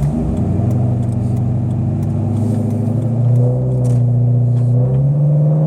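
Chrysler 300 SRT8's Hemi V8 pulling under acceleration through a cat-deleted Flowmaster exhaust, heard from inside the car. Its deep drone climbs slowly in pitch and jumps higher about five seconds in as the revs build.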